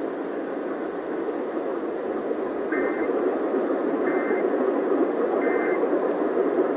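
Three short data bursts of EAS SAME end-of-message tones, each about a third of a second and a little over a second apart, over steady radio static hiss: the digital signal that closes an alert broadcast.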